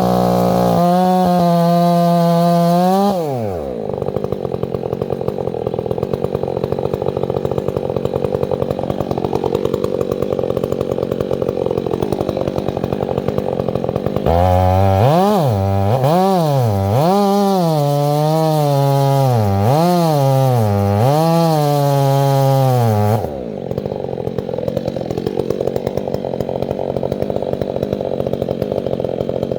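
Petrol chainsaw idling, then opened up to full throttle for about nine seconds, its pitch rising and dipping repeatedly, before dropping back to idle. A short burst of throttle fades out just after the start.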